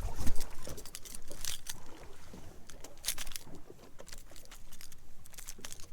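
Open-air sound on a small fishing boat: a loud low rumble of wind on the microphone in the first half second, then scattered short sharp splashes and clicks over a steady noisy background.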